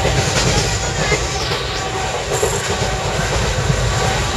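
Indian passenger train running along the track, heard from inside the carriage: a steady low rumble of the wheels and coach.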